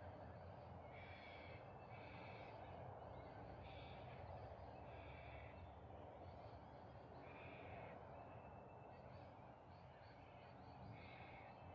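Faint birds calling in the bush, short calls repeating every second or so at uneven gaps, over a low steady background hiss.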